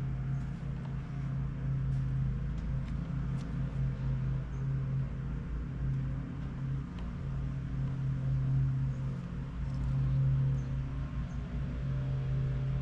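Steady low mechanical hum, with a few faint clicks and taps scattered through it.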